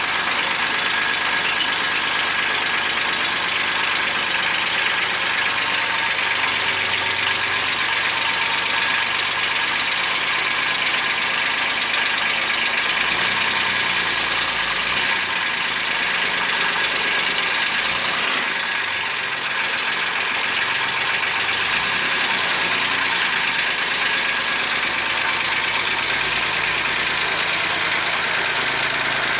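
Old Kubota tractor engine running steadily.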